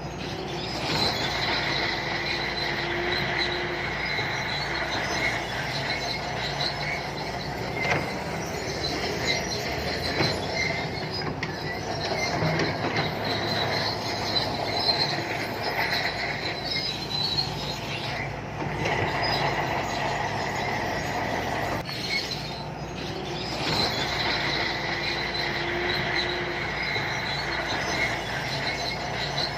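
Shantui crawler bulldozer working, its diesel engine running steadily while the steel tracks squeal continuously. The squeal drops away for a moment twice, about two-thirds of the way through.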